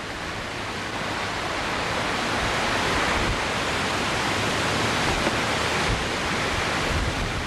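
Rushing floodwater: a steady rush that swells a little toward the middle and eases near the end.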